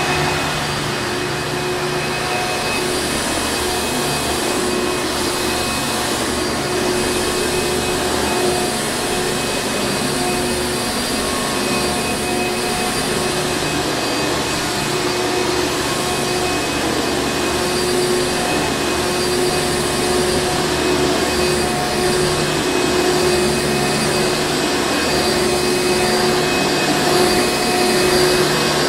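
Hoover Encore Supreme vacuum cleaner running steadily: an even motor-and-airflow whir with a constant hum.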